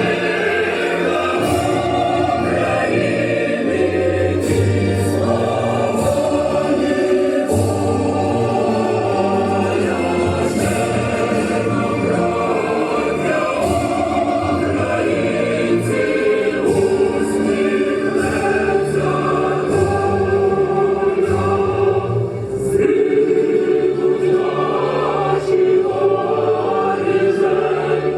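A choir singing a song with musical accompaniment, the voices holding long notes over a changing bass line.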